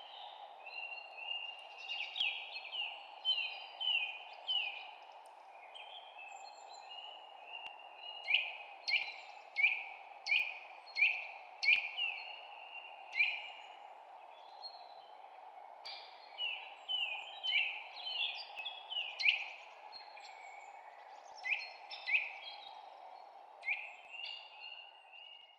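Birds chirping in runs of short, sharp, downward-sweeping notes, about one or two a second, over a steady low hiss.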